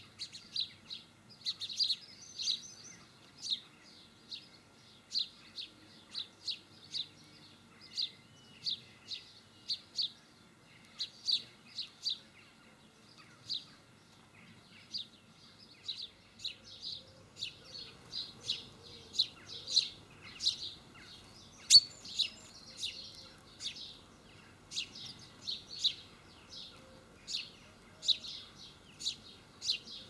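Small garden birds giving short, high chirping calls, one or two a second throughout. One sharp click about two-thirds of the way through.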